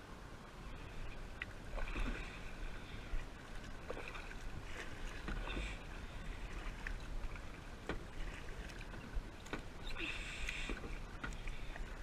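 Kayak paddle strokes: the blade dipping and splashing in the water about every two seconds, over a steady low rumble.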